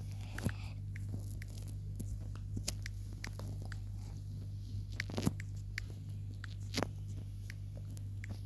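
Irregular scattered clicks and taps, a couple of them sharper about five and seven seconds in, over a steady low hum.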